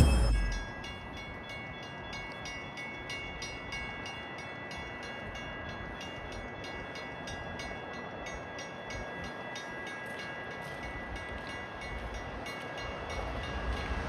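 Railroad grade-crossing warning bell ringing in steady, evenly spaced strokes, after a sudden loud thud at the very start. A train's low rumble starts to build near the end.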